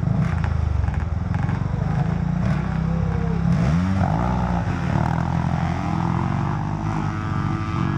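Dirt bike engines running and revving, their pitch rising and falling several times as the bikes ride. The sound cuts off abruptly at the very end.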